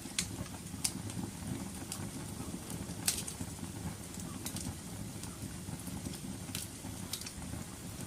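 Wood fire crackling: a steady low burning rumble with irregular sharp pops and snaps, the loudest a little after three seconds in.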